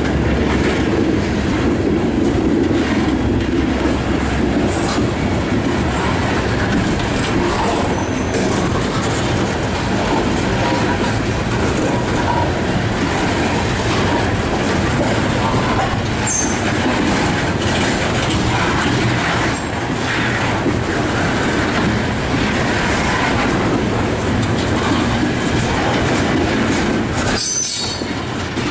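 Coal hopper cars of a slow freight train rolling by: steel wheels rumbling and clacking over the rails, with a few brief high squeals, the strongest near the end.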